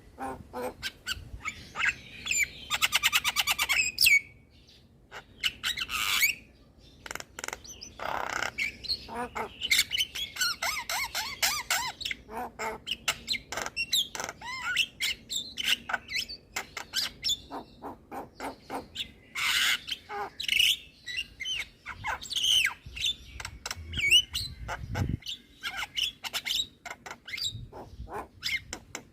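Javan myna (jalak kebo) singing a long, varied song of harsh squawks, clicks and whistles, with a fast rattling trill about three seconds in and a short pause soon after.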